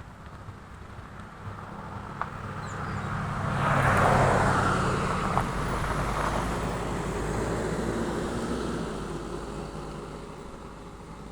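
A motor vehicle passing by, its engine and road noise swelling to a peak about four seconds in, then slowly fading away. A couple of faint sharp taps sound along with it.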